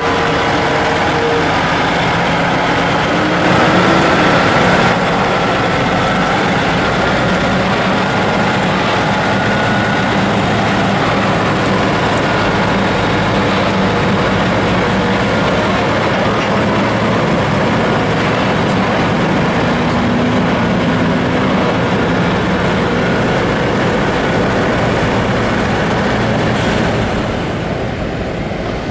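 Heavy diesel trucks running: a loud, steady mechanical rumble and roar, dropping slightly near the end.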